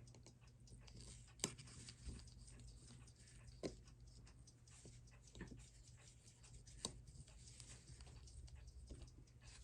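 Near silence: room tone with a low steady hum and a handful of faint, scattered clicks, about four or five in all.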